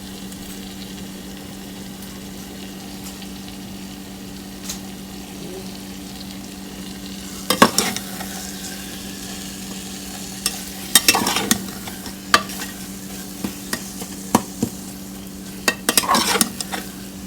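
Korma masala frying with a steady sizzle in a pan, under a constant low hum. A spoon stirs and scrapes against the pan in three short bouts, a few seconds apart.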